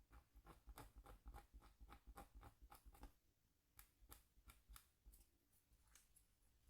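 Scratchboard stylus scraping short strokes into the board's coating: a faint, quick run of sharp scratches for about three seconds, then fewer, spaced-out strokes.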